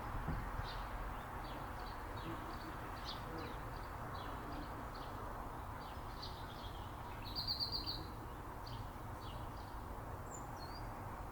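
Small birds chirping with short, high notes, two or three a second, and a brief rapid trill about seven seconds in. A steady low background hiss runs underneath.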